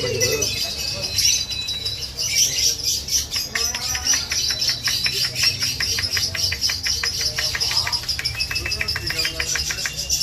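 Lovebird singing in a long, unbroken stream of rapid, high-pitched chirps and chatter, many notes a second with barely any pause.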